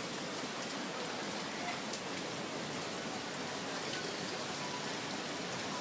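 Heavy tropical rain pouring down steadily, an even hiss of rain on surfaces with a few individual drop ticks.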